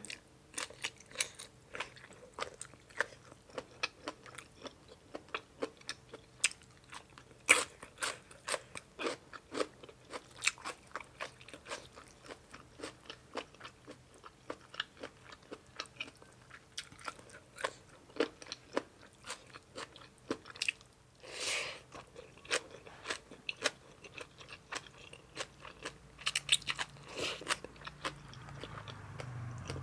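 Close-miked chewing of crunchy food, with many short, sharp crunches a few times a second and a longer rush of noise about two-thirds of the way through.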